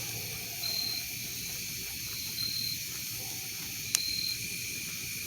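Night insect chorus of crickets, a steady high-pitched trilling, with a short higher chirp repeating about every one and a half to two seconds. A single sharp pop from the campfire a little under four seconds in.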